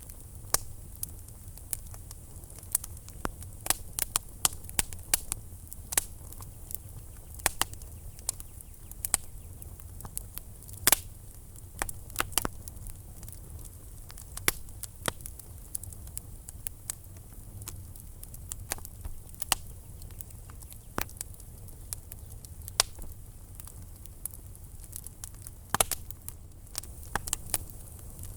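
Wood fire burning in a fireplace, crackling with frequent, irregular sharp pops over a steady low rumble. The loudest pop comes about eleven seconds in.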